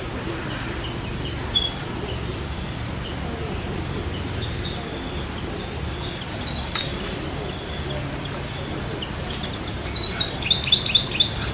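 Steady high-pitched insect trilling with birds chirping over it, the chirps coming in two quick clusters, one in the middle and one near the end.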